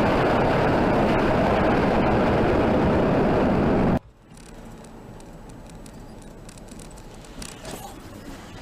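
Loud, steady road and engine noise of a moving car, cut off abruptly about four seconds in. Quieter traffic noise follows, with a few faint knocks near the end.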